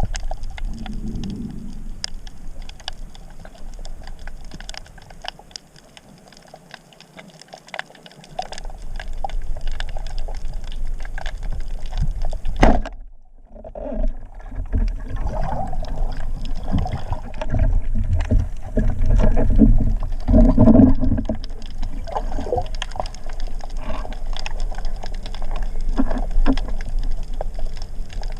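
Underwater ambience picked up by a camera on a spearfishing dive: water rushing against the housing, with many scattered sharp clicks. About halfway through comes a single sharp knock, then the sound briefly drops away.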